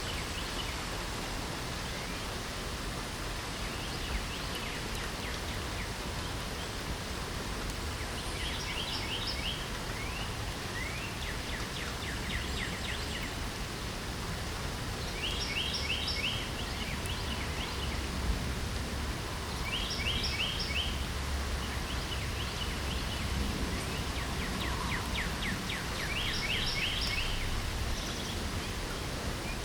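Steady hiss of light rain, with a songbird singing short, quick trilled phrases of rapid repeated notes about every four seconds from about a third of the way in.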